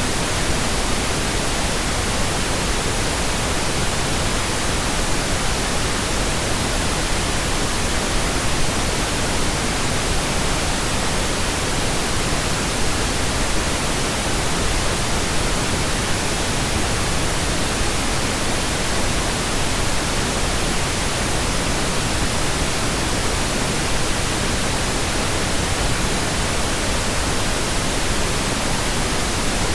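Steady pink noise, a computer-generated even hiss.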